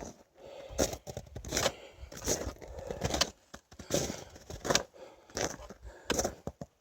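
Footsteps of a person walking at a steady pace, about one step every three-quarters of a second.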